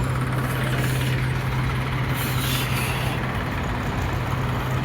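Tractor diesel engine running steadily at a constant speed, with a short hiss about two seconds in.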